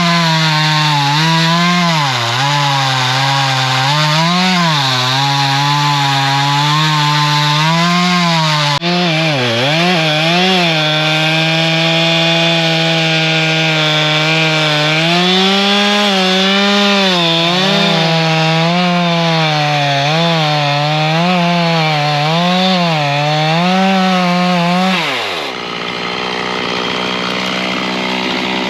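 Gasoline engine running at high speed, its pitch repeatedly dipping and recovering as it takes load. Near the end it winds down quickly to a lower, steadier note.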